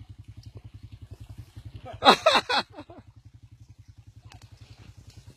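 Motorcycle engine idling with a steady, rapid putter of about a dozen beats a second. About two seconds in, a person's voice shouts briefly over it, louder than the engine.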